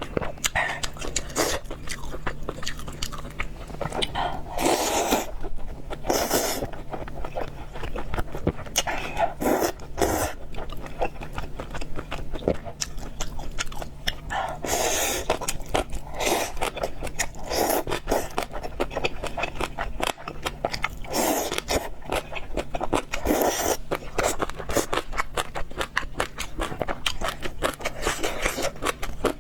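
A person chewing and biting fried noodles and pork, a steady run of small crunchy, wet clicks with a louder noisy swell every few seconds.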